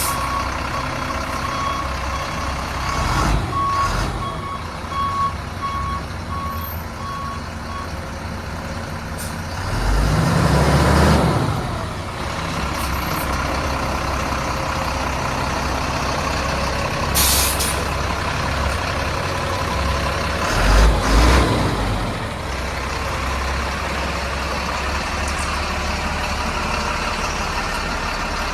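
Heavy diesel truck running steadily, with a backup alarm beeping regularly through roughly the first third. A short hiss of air comes near the middle, and twice the engine sound swells louder for a second or two.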